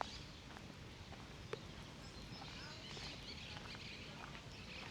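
Open-air park ambience: a steady background hum with birds chirping faintly, mostly in the second half, and a few light taps.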